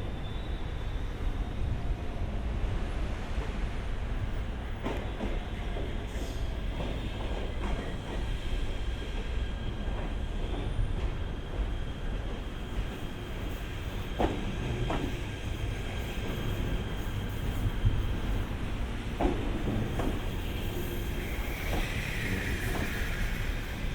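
E127 series electric train: a steady low rumble with a steady high whine, broken by a few short knocks or clanks.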